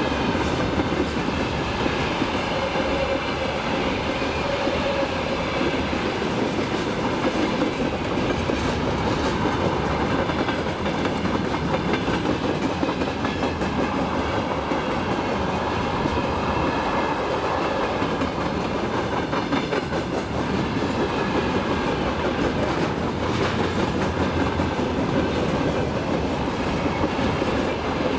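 Freight train wagons rolling past at speed, a steady rumble of wheels on rail with the clickety-clack of wheels over rail joints.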